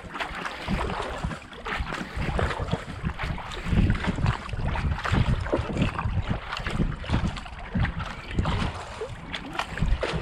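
Racing kayak paddle strokes, the blades catching and splashing in the canal water left and right in a steady rhythm a little under a second apart, at an interval pace of about 70–80 strokes a minute. Wind rumbles on the GoPro microphone underneath.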